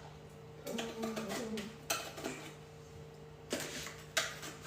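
A few sharp clinks and knocks of kitchen utensils and pots over a steady low hum, with a brief faint voice about a second in.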